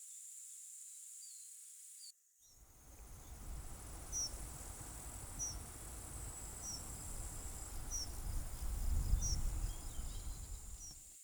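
Summer meadow insects trilling steadily and high, with a short chirp repeated about every second and a half. From about two seconds in, a low rumbling noise rises under them, loudest near the end, then cuts off suddenly.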